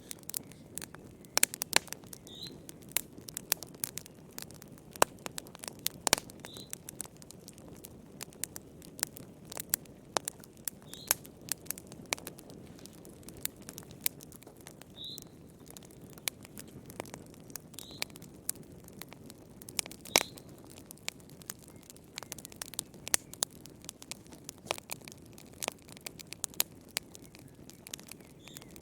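Wood fire burning in a fireplace: a steady low rush of flame with frequent sharp, irregular crackles and pops of the burning logs. Faint short high-pitched squeaks come every few seconds.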